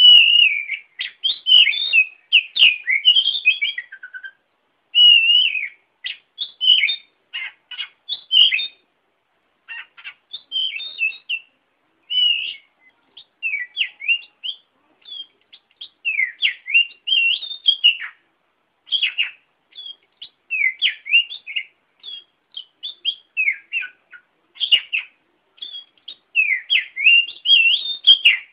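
A songbird singing a varied song of short, quick whistled phrases, rising and falling, broken by brief silent pauses.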